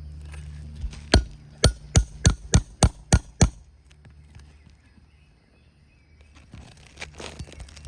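A quick run of about eight sharp hammer strikes on a steel nail puller, roughly three a second, driving it under a roofing nail to pull it from an asphalt shingle; a few light taps follow near the end.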